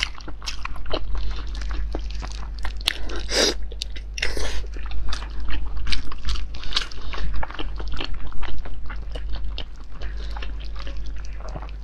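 Close-miked mouth sounds of biting and chewing a soft, jelly-like starch dome with a meat filling: a dense run of wet smacks and clicks. Two louder wet bursts come about three and a half and four and a half seconds in.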